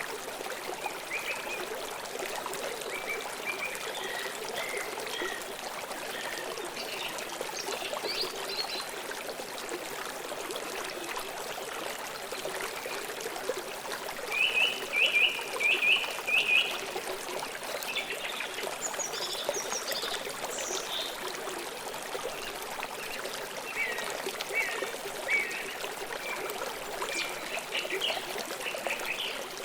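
River water flowing steadily, with birds chirping over it: scattered calls throughout and a loud run of about five quick notes about halfway through.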